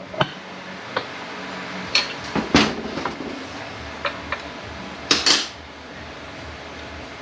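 Scattered metal clinks and knocks of tools and transmission parts being handled on a workbench, the loudest pair about five seconds in, over a steady hiss.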